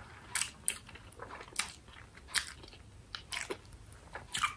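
A person eating instant noodles, heard close up: chewing and slurping as a string of short, irregular wet clicks and smacks from the mouth.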